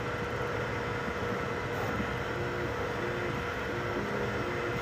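3D printer running: a steady mechanical hum with short stepper-motor notes that change pitch as the print head moves.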